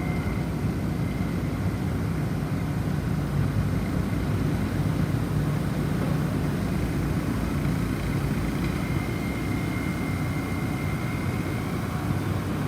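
Steady low rushing of snowstorm wind, with no clear lulls. A single faint, high wind-chime tone rings for a few seconds past the middle.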